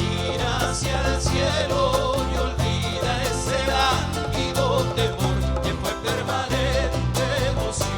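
Latin American folk band playing a song with a steady strummed rhythm, a repeating bass line and a wavering melody line over it.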